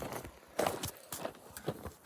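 Irregular knocks, clicks and scuffs of hands-on repair work, with the loudest knock about half a second in.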